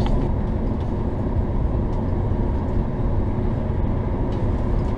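Frecciarossa high-speed train running at speed through a tunnel, heard inside the passenger carriage as a loud, steady low rumble.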